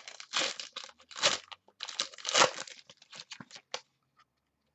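Plastic trading-card packaging crinkling and rustling in hand, a run of crackly bursts that thins out and stops shortly before the end.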